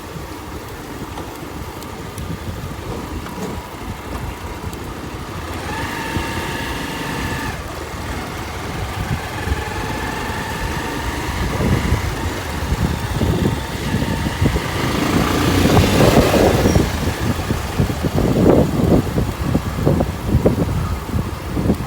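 Motorcycle engine running on the road with wind rushing over the microphone and road noise. A steady whine comes in briefly about six seconds in, and the rushing grows loudest around sixteen seconds, then comes in gusts.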